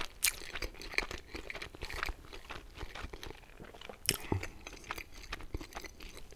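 Close-miked chewing of pizza: irregular crunches and wet mouth clicks as a mouthful is chewed, with a couple of sharper crunches about a quarter second in and about four seconds in.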